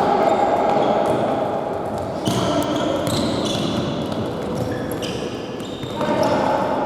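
Futsal game sounds in a reverberant sports hall: ball knocks on the hard court, short high squeaks of players' shoes, and shouting voices.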